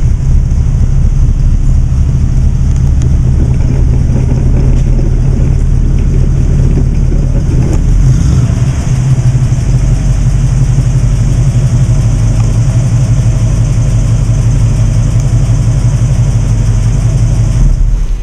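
1947 Lincoln Continental's swapped-in 1955 Oldsmobile 324 Rocket V8 running steadily at idle, smooth and even.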